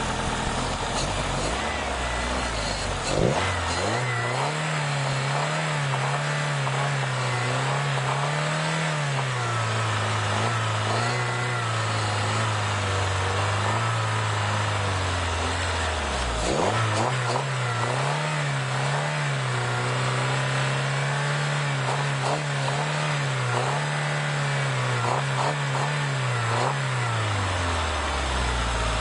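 Saturn SC2's 1.9-litre twin-cam four-cylinder engine revved up and held at raised speed, dipping sharply about halfway, revving up again and settling back toward idle near the end, while carburetor cleaner is sprayed into its throttle body.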